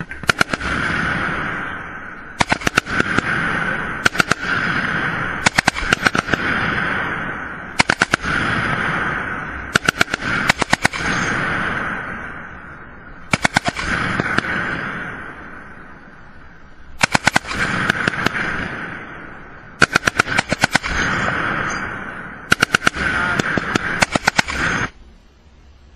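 Automatic gunfire in short bursts of several rounds each, about a dozen bursts roughly two seconds apart, each trailing off in a long echo. It stops a second before the end.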